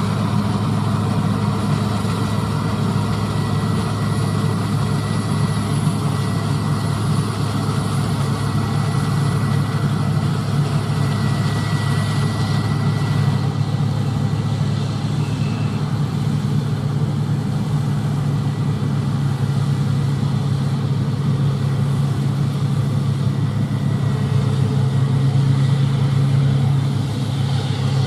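Diesel engine of large harvest machinery running steadily, a continuous deep drone with a faint high whine; its pitch shifts slightly lower about halfway through.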